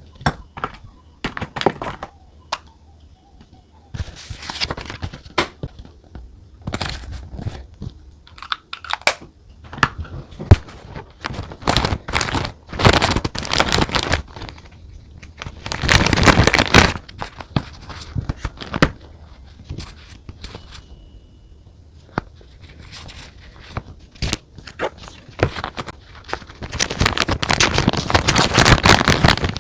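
Paper and sticker sheets being handled while decorating a journal: crinkling, rustling and tearing in irregular bursts, with small taps and clicks between them. The longest rustling comes near the end.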